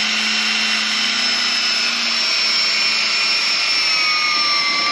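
Drill running at high speed, drilling holes through truck body sheet metal; a steady whine whose pitch sags slowly as the bit cuts.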